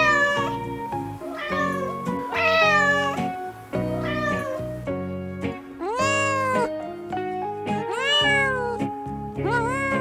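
A cat meowing repeatedly, each meow a drawn-out call that rises and falls in pitch, coming about every one to two seconds, over background music with held chords.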